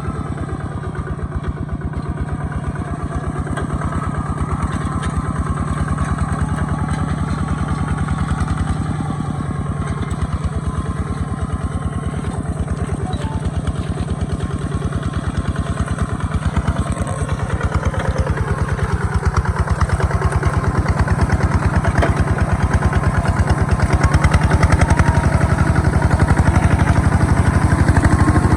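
Small Kubota tractor engine running steadily with a fast, even chugging beat, growing somewhat louder toward the end.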